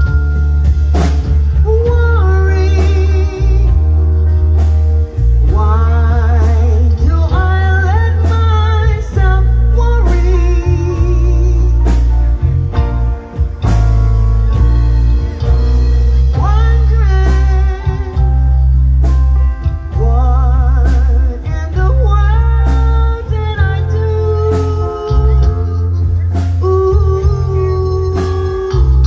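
A band playing a blues-rock song: a singer holding wavering notes over a heavy bass line, guitar and steady drum hits.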